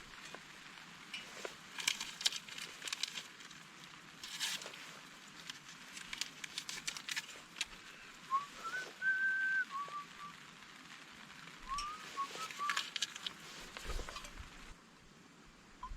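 A few short whistled notes in two groups past the middle, the first group rising to a held higher note, over irregular sharp clicks and crackles.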